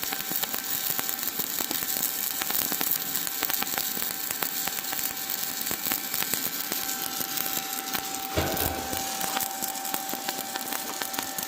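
Arc of an ESAB 180i Pro inverter stick welder, burning a 3.25 mm basic E7018 electrode at about 100–110 A: a steady frying crackle of the arc laying a bead.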